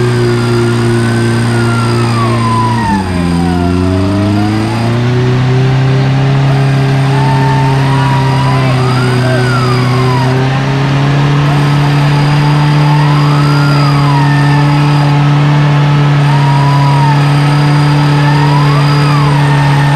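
Off-road 4x4's engine running steadily under load as it climbs a muddy track. The engine speed dips briefly about three seconds in and comes back up, and a higher whine rises and falls in pitch every few seconds.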